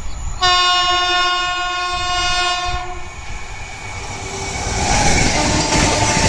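Locomotive air horn sounding one long blast of about two and a half seconds, then the rushing noise and wheel clatter of a train passing at speed, growing louder.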